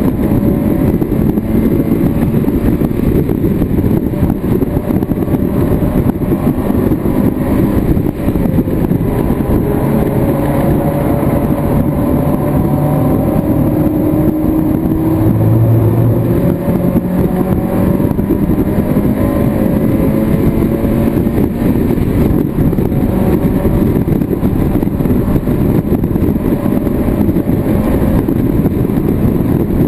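Mazda MX-5 race car's four-cylinder engine running hard, heard from inside the stripped cockpit over wind and road noise, its pitch rising and falling with the revs.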